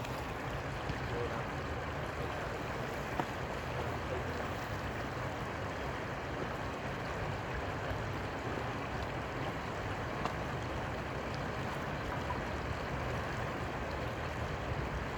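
Steady rushing of flowing river water, an even noise with a low rumble underneath and a few faint ticks.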